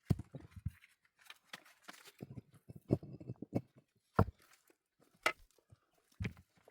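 Irregular knocks and thuds with crunching and rustling between them, about five sharp impacts spread over a few seconds.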